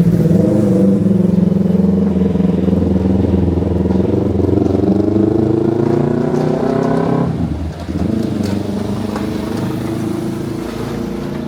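A passing motor vehicle's engine accelerating, its pitch rising steadily for about seven seconds, with a short break near the end as it shifts gear, then running on and fading.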